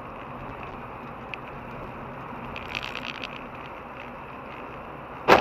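Steady road and engine noise of a car heard from inside, with a short run of rapid ticking in the middle, then a sudden loud bang near the end, typical of a vehicle collision.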